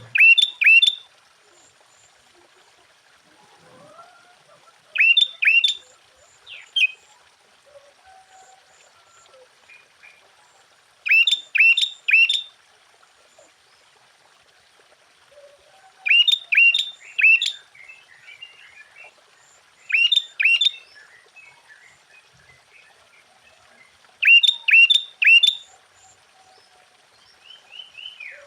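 Sooty-headed bulbul singing: short bursts of two to four loud, sharp notes, each sliding down in pitch, repeated every four to six seconds, with faint softer chirps in between.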